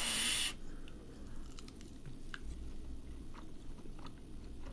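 A person chewing a hot air-fried halloumi cheese fry, heard as scattered faint soft clicks, after a short rush of breath at the very start.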